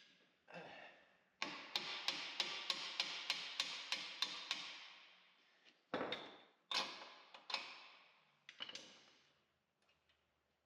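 A hammer strikes steel parts of a skid-steer's boom mount with ringing metallic blows. First comes a quick run of about fourteen strikes, some four a second, then a few slower, spaced blows.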